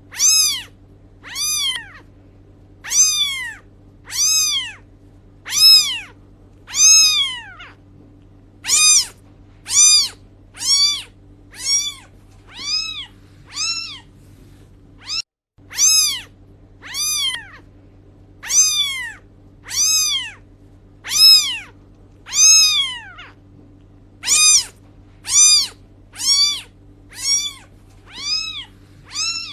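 Cat meowing over and over, about one short meow a second, each rising then falling in pitch, over a steady low hum. There is a brief break about halfway through.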